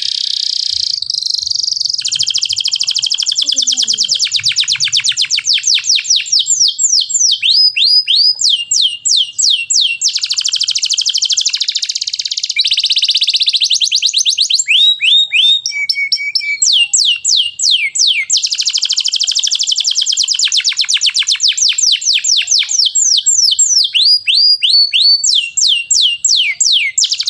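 Domestic canary singing a long, unbroken song: fast buzzy trills alternating with runs of quick falling whistled notes, several a second.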